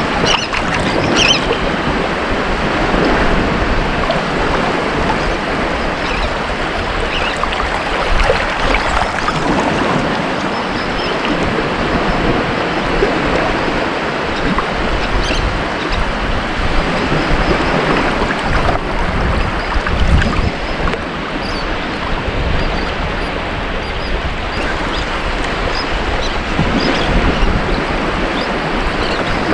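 Ocean waves breaking on a beach: a continuous wash of surf rising and falling gently, with low rumble and some wind on the microphone.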